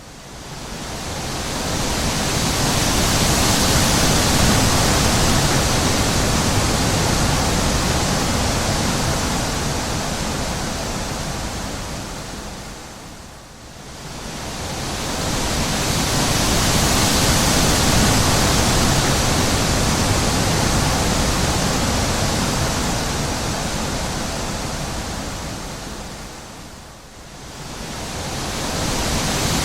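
Wind blowing in long, even gusts, a rushing hiss with a low rumble beneath it. It swells and dies away in slow waves about every thirteen seconds, dropping almost to a lull about a third of the way in and again near the end.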